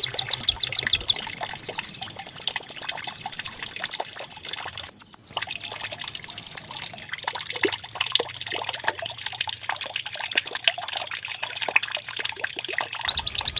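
White-eye (pleci) singing a canary-like song: fast rolls of high falling notes, about ten a second, with a warbled trill among them. About six and a half seconds in the song drops to faint twittering, and the loud rolls return near the end.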